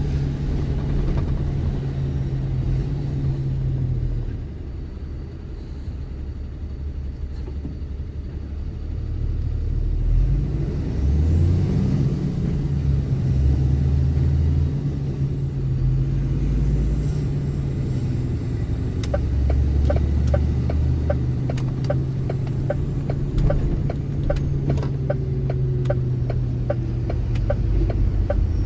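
Truck engine running as it drives in city traffic, a low steady drone that shifts in pitch and level with throttle and gear changes. About two-thirds of the way through, a regular ticking of about two a second starts and carries on.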